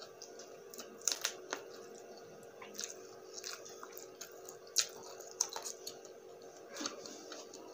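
Close-miked chewing and wet mouth sounds of a person eating sauced buffalo wings with rice: irregular smacks and clicks, one sharper smack a little before the 5-second mark. A steady low hum runs underneath.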